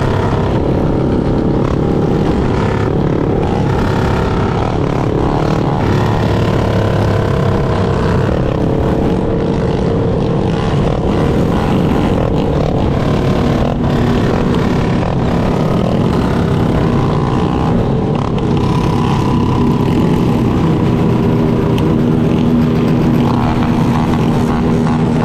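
Yamaha Lander 250 single-cylinder motorcycle engine running steadily under way, its pitch shifting a little with the throttle, with wind rushing over the microphone.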